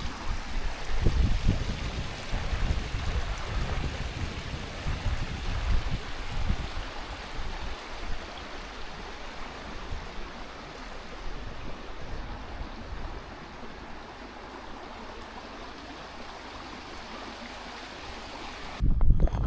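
Stream water running steadily over rocks, with low buffeting of wind on the microphone through the first half, cut off abruptly near the end.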